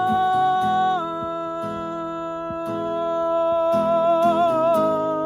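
A man singing one long held high note on the word "run", dropping slightly in pitch about a second in and wavering near the end, over a strummed acoustic guitar.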